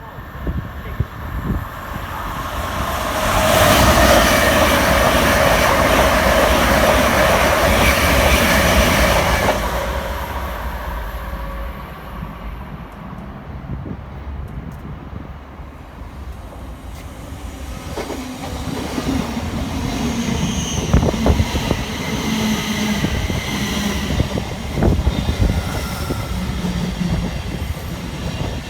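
A train running through the station: a loud rush of wheels on rail that builds over the first few seconds, holds for about six seconds, then dies away. Afterwards a quieter steady hum with scattered clicks.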